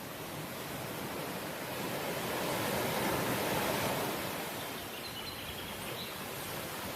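Sea waves washing ashore: a steady hiss of surf that swells to a peak about halfway through and then eases back.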